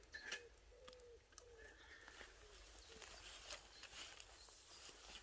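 Faint pigeon cooing, a few soft coos in the first second and a half, over near-silent woodland with scattered faint ticks.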